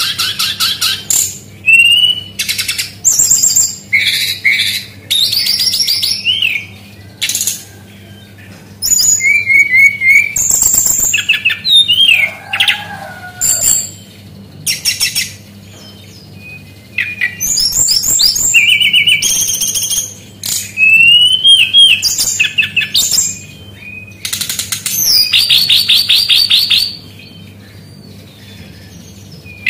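Sikatan rimba dada coklat (jungle flycatcher) singing in bursts of rapid high trills and varied whistled phrases, each a second or two long, with short pauses between. A faint steady low hum runs underneath.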